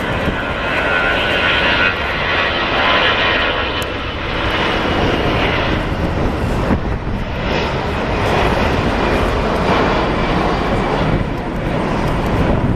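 Airbus A340's four jet engines at take-off thrust, a loud steady roar with a whining tone in the first few seconds that fades into the broad rumble.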